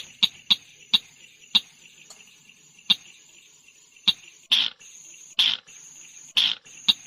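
Tut-tutan merah bird calling: a string of short, sharp 'tut' notes that slow down and spread out, followed by three longer notes in the second half. A steady high buzz like a cricket runs underneath.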